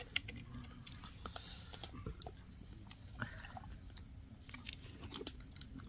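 Someone chewing and biting into a chicken lollipop, with scattered faint clicks of mouth and food sounds.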